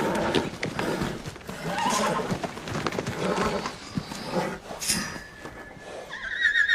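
Horse hooves knocking and scuffling as an unbroke colt moves about under its first saddle, a worried reaction. About six seconds in a horse whinnies, a wavering high call.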